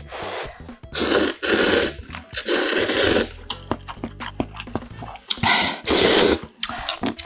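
A person slurping stew broth and noodles close to the microphone in loud, noisy bursts, five of them, with quieter chewing and mouth sounds between and soft background music underneath.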